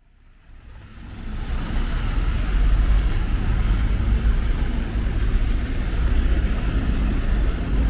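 Rainy city street ambience: a steady low traffic rumble under an even hiss of rain and wet road noise, fading in over the first couple of seconds.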